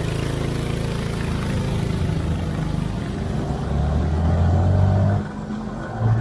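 Yamaha KT100 100cc two-stroke single-cylinder kart engine running, its pitch shifting a few times and the revs dropping back about five seconds in.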